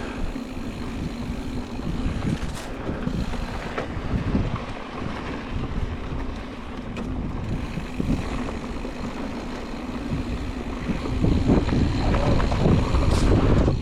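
Mountain bike rolling along a dirt trail: tyre noise and rattle mixed with wind buffeting the microphone, growing louder after about eleven seconds.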